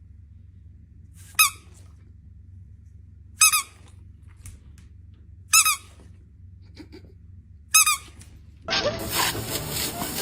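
A short high-pitched squeak, repeated four times about two seconds apart. Near the end it gives way abruptly to a loud hissing, rasping noise.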